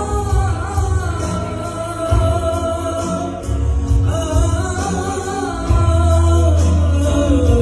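A man singing long, held, ornamented melodic lines in Arabic over backing music with a heavy bass beat.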